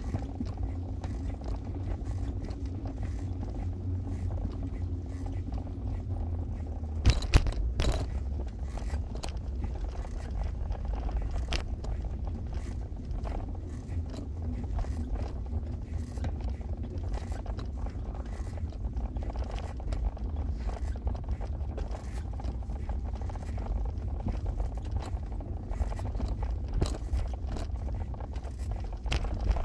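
Steady low rumble of a vehicle driving, with occasional knocks and rattles, two of them louder about seven seconds in.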